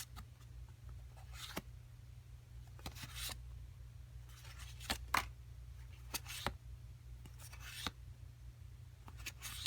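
Pokémon trading cards being handled and laid out: a scattering of short faint slides and taps, about a dozen, over a steady low hum.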